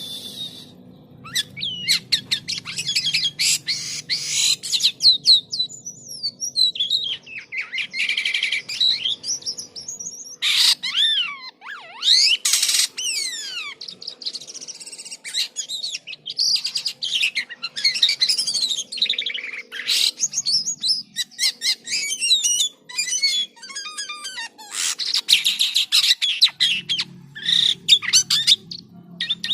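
Jalak kapas starling singing a long, varied song: rapid chattering trills, whistled notes sliding up and down, and harsher notes in quick succession with only brief pauses.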